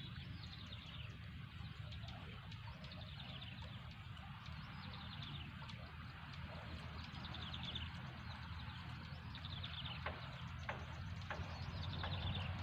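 Outdoor rural background with a bird repeating a short, high descending trill every couple of seconds over a steady low hum. A few sharp clicks come near the end.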